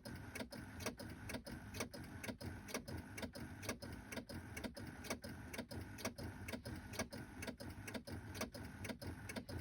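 Steady rapid clicking, about three sharp clicks a second, from a 2006 Chevy HHR that won't start: its electrical system is chattering on its own.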